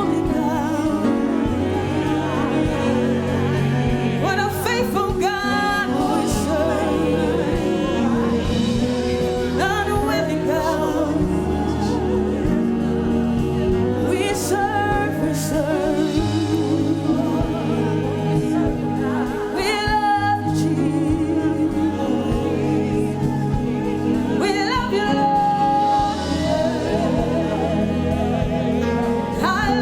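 Gospel worship music: voices singing with vibrato over a steady instrumental accompaniment with sustained low bass notes.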